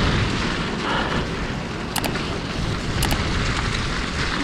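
Wind buffeting and mountain-bike riding noise on an action-camera microphone fitted with a wind muffler: a steady, dense low rumble, with two sharp clicks about two and three seconds in.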